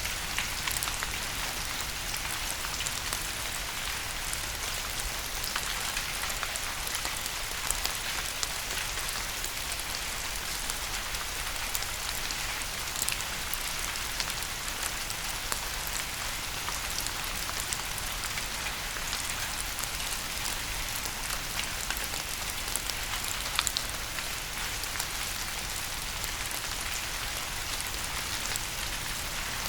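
Steady rain falling on a surface, a constant hiss with many scattered drop patters.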